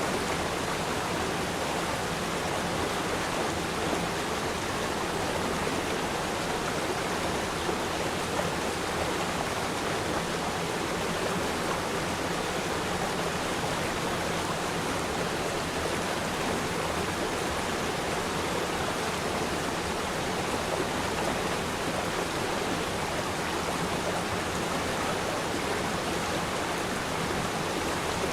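River stream flowing: a steady, even rush of water.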